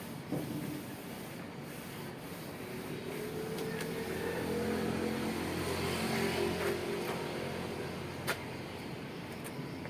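A motor vehicle passing in the background, its engine sound swelling about three seconds in and fading away a few seconds later, with one sharp click near the end.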